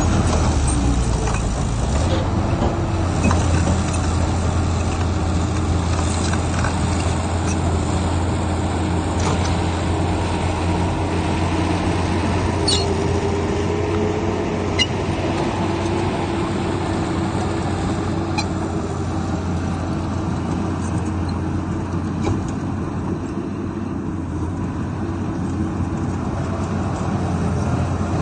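Heavy diesel engines of earthmoving machinery, a bulldozer and dump trucks, running steadily under work, with a low drone and a few short clanks.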